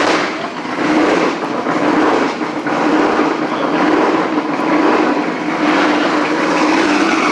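Loud car engine and exhaust running with a steady low drone, surging louder a few times in the first few seconds as it is revved.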